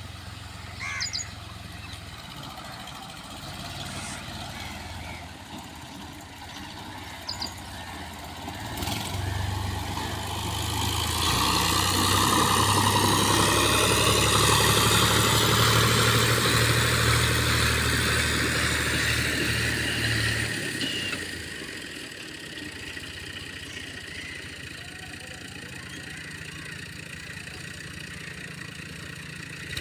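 Al-Ghazi diesel tractor engine running. It grows much louder about ten seconds in, stays loud for around ten seconds, then falls back to a quieter steady run about twenty seconds in.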